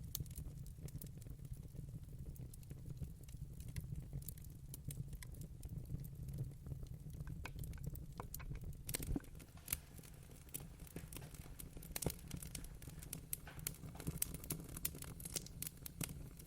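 Wood fire burning in a fireplace, crackling with irregular sharp pops that come thickest about halfway through and again near the end, over a low steady rumble.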